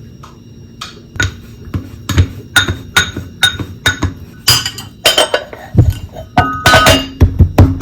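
Dishes and glassware being handled and set down in a kitchen: a quick series of sharp clinks and knocks, about two a second, bunching into a busier clatter near the end.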